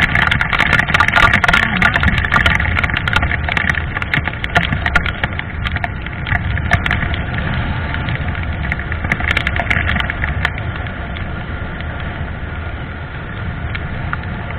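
Motorcycle engine running steadily while riding, with wind rushing over the microphone and many sharp ticks and crackles over it that thin out near the end.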